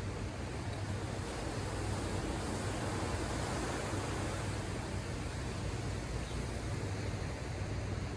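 Ocean surf breaking and washing ashore: a steady rush that swells a little in the middle, over a low rumble.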